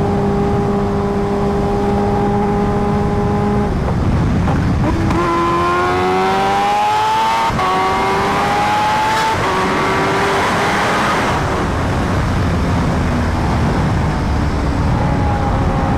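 Kawasaki Ninja H2R's supercharged inline-four engine holding a steady pitch, then from about four seconds in accelerating hard, its pitch rising through several gears with a brief break at each upshift. It settles to a steadier, lower note near the end, with wind rush building on the microphone during the pull.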